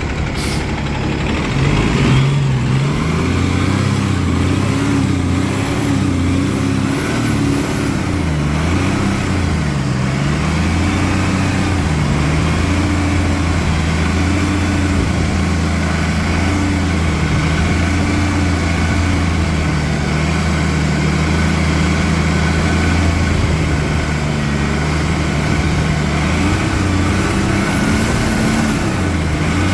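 Cummins ISL inline-six turbo diesel in a 2010 Gillig Low Floor 40-foot transit bus, revved over and over, its pitch climbing and dropping back repeatedly, with turbo flutter as the throttle is let off.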